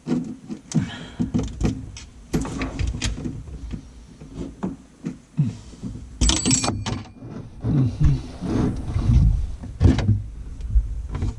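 Set screws on a widespread lavatory faucet being tightened: irregular knocks, clicks and scrapes of tools and metal parts, with one sharp metallic clink that rings briefly about six seconds in.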